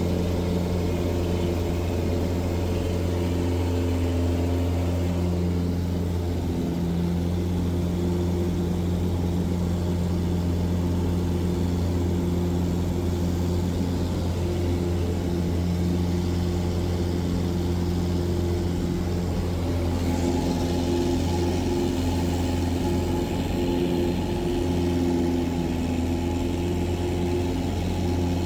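Cessna 177 Cardinal's four-cylinder piston engine and propeller running steadily, a continuous low drone. The tone shifts slightly about twenty seconds in.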